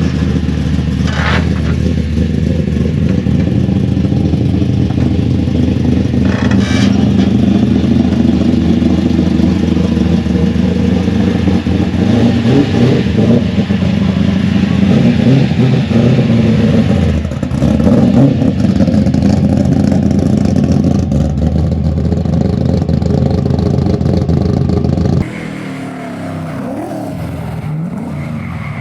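Rally cars' engines running hard and revving on a tarmac sprint course, loud and continuous. About 25 seconds in, the sound cuts abruptly to quieter engine noise.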